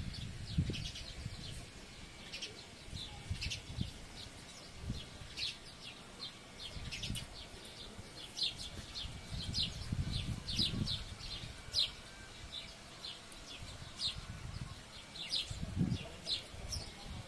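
Small birds chirping again and again in short, high chirps, over a low rumble that comes and goes.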